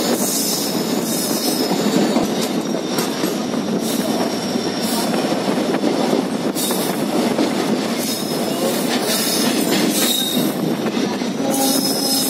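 Passenger train running, heard from inside a coach: a steady rumble of steel wheels on the rails with scattered clacks over rail joints and a thin high wheel squeal that comes and goes. A short pitched squeal is heard near the end.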